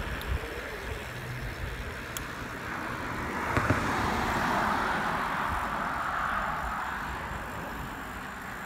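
A vehicle passing by: a whoosh of tyre and road noise that swells about three and a half seconds in and fades away over the next few seconds, over low wind rumble on the microphone.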